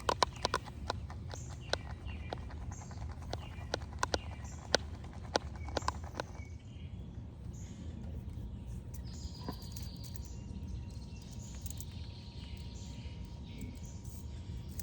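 A run of sharp clicks and taps of shaving gear being handled for about six seconds, then fewer, over steady outdoor background with faint birds chirping.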